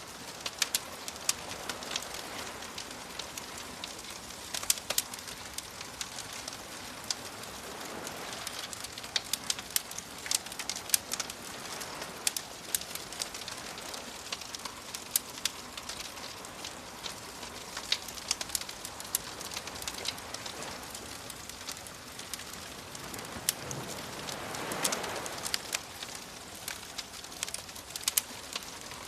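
Wood fire crackling with frequent sharp pops over a steady hiss, while soft waves wash in and recede, swelling a few times.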